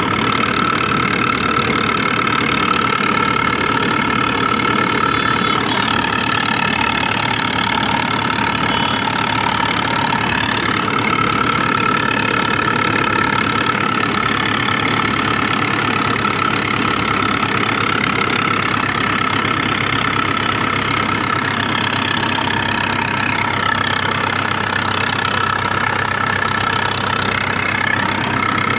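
Tractor diesel engine running steadily, working under load while hauling a fully loaded trolley.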